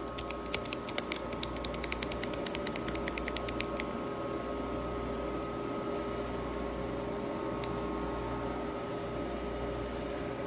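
A steady mechanical hum with a few fixed tones. Over the first four seconds it carries a rapid run of light clicks, about six a second.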